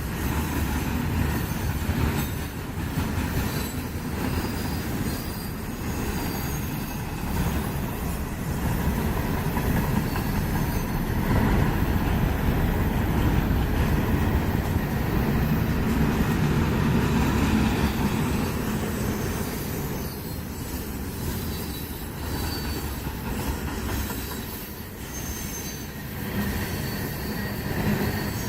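A long freight train rolling past: a steady rumble of steel wheels on the rail, with brief high-pitched wheel squeals now and then.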